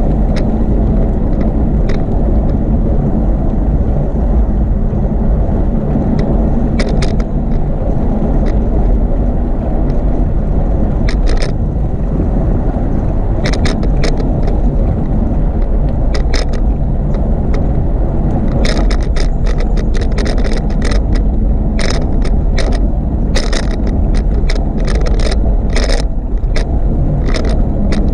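Steady wind and rolling rumble from riding a bicycle, with short sharp rattles and clicks. A few are scattered through the first half, then they come thick and fast in the last ten seconds.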